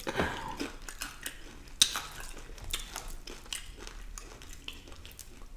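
Close-up chewing and biting of food, with many small irregular mouth clicks and one sharper click about two seconds in.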